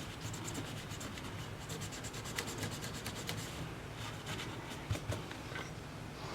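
Rapid scratching or scraping strokes of a hand tool rubbing against a surface, followed by a few light clicks, over a low steady hum.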